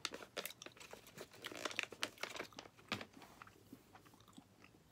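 A person chewing a soft gummy jelly candy: a quick run of small wet mouth clicks that thins out over the last couple of seconds.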